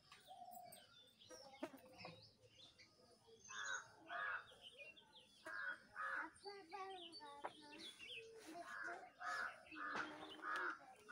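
Birds calling: loud calls in pairs, repeated four times from about three and a half seconds in, with quicker wavering chirps between them.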